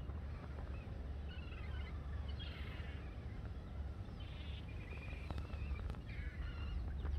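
Small birds chirping in three short runs over a steady low rumble, with a few light footsteps.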